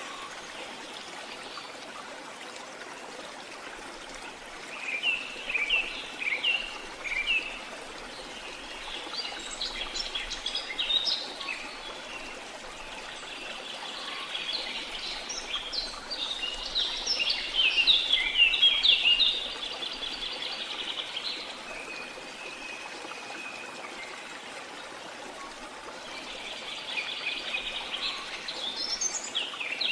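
Steady flowing-water rush with birds chirping and calling over it in several bursts of quick, high notes. The loudest burst comes about two-thirds of the way through.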